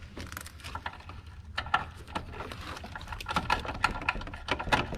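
Irregular clicks and clinks of hand tools and metal parts while a bracket is unbolted in a car's engine bay.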